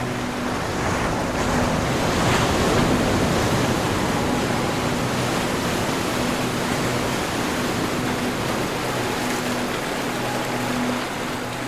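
Ocean surf washing in, one wave swelling to its loudest about two to three seconds in and then easing into a steady rush. A faint low held tone sits underneath.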